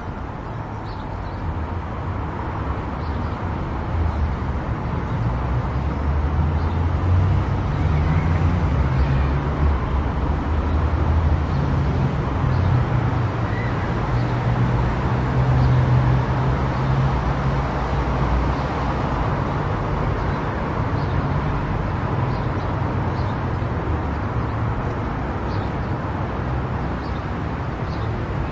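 A car driving at speed on an expressway: steady tyre and road noise under a low drone. It grows louder a few seconds in and eases a little near the end.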